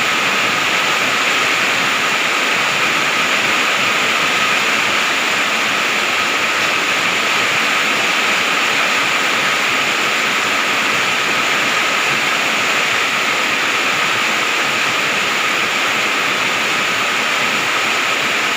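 Heavy rain falling, a steady, even downpour with no letup.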